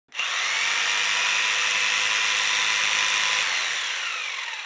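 Electric saw switched on and running at full speed with a steady high whine, unloaded. From about three and a half seconds in it winds down after being switched off, the whine falling in pitch as it fades.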